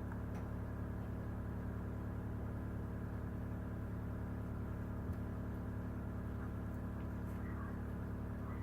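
Steady low electrical hum with many overtones, unchanging throughout, with a couple of faint clicks.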